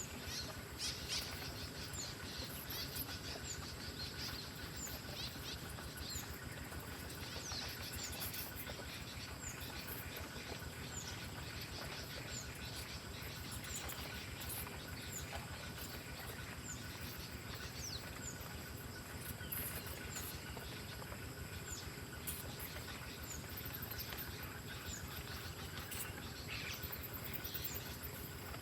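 A small bird giving short, high chirps, one roughly every second or so, over steady outdoor background noise.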